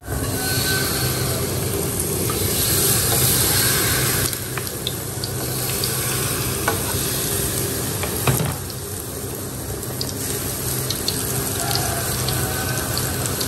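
Peyek batter sizzling steadily as it fries in hot oil in a wok, with a few light clinks of the metal ladle and spatula against the pan.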